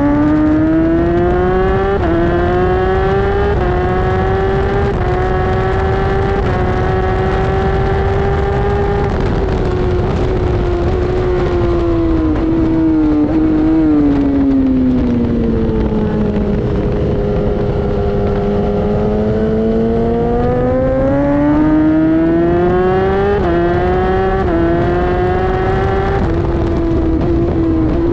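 Inline-four superbike engine at full throttle on a race track, pitch climbing and dropping back with each quick upshift. Midway it comes off the throttle and the engine note falls with a few downshifts into a long slow turn. It then accelerates hard again through several more upshifts, with wind rushing throughout.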